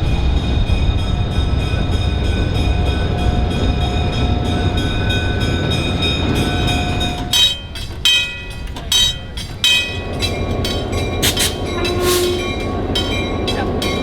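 Diesel-hauled train running past with a steady, heavy diesel engine rumble. From about halfway through, the wheels click sharply and irregularly over rail joints.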